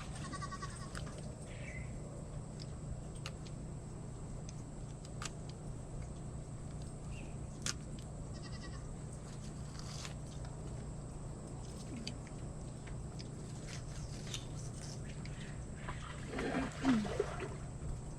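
Farm goats bleating several times in the background, with a longer, lower bleat near the end. Scattered sharp clicks and a steady low hum run underneath.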